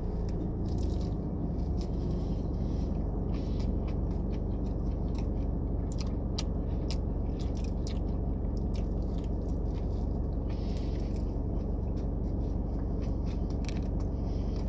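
Close-up chewing and biting into a footlong sub with chicken strips on Italian herb and cheese bread: irregular soft crunches and mouth sounds. A steady low rumble runs underneath.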